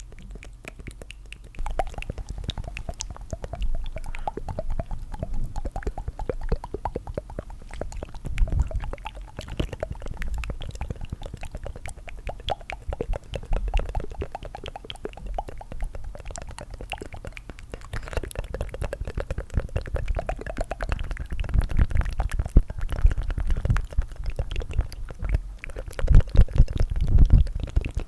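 Layered tongue fluttering: a dense run of rapid, wet fluttering clicks with a low rumble, growing louder near the end.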